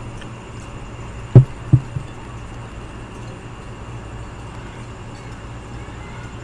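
Steady low hum of an outdoor air-conditioning unit, with three dull thumps in quick succession about a second and a half in, the first the loudest.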